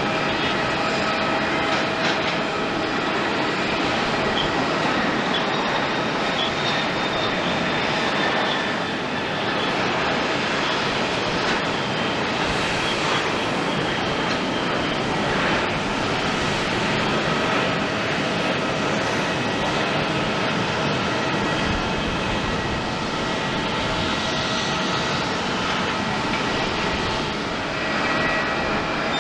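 Turbofan jet engines of a Bombardier Global 7500 business jet, running with a steady rushing noise and several held whining tones.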